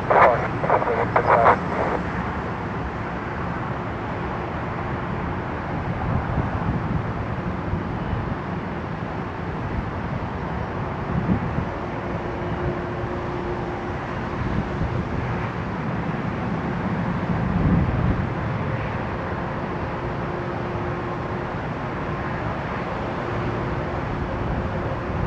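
Steady outdoor airport ambience: an even low rumble of distant jet aircraft engines and traffic, with a faint hum that comes and goes.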